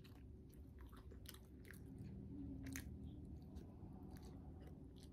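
A person chewing a mouthful of burrito, faint, with scattered soft mouth clicks.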